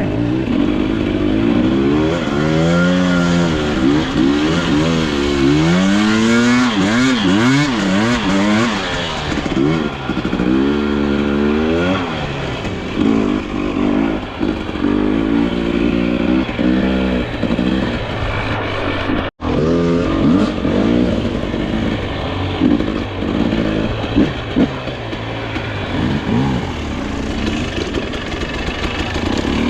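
Dirt bike engine under ride, the revs rising and falling over and over as the throttle is worked on a slippery trail, with a brief dropout about two-thirds through.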